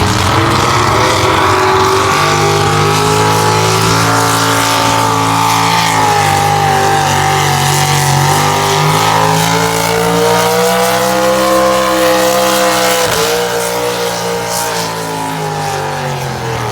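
Pulling truck's engine running at high revs under full load, dragging a weight-transfer sled down a pull track. Its pitch sags slowly and climbs back, with a brief sharp dip about two-thirds of the way through.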